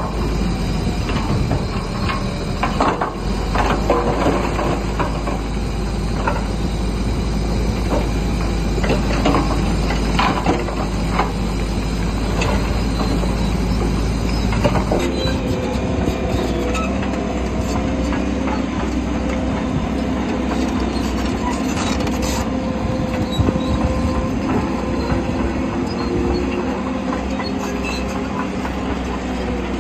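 Bulldozer at work: the engine runs under load while the steel crawler tracks clank and knock, then squeal more steadily from about halfway.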